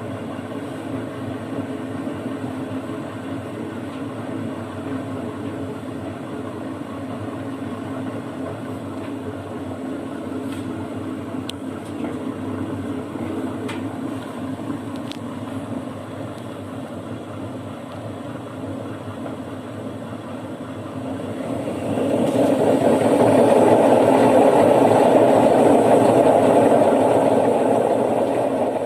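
Washer-dryer running on its drying cycle, a loud steady mechanical hum; about 22 seconds in it grows louder and rougher, then eases off near the end. The noise is put down by the technician to the drum.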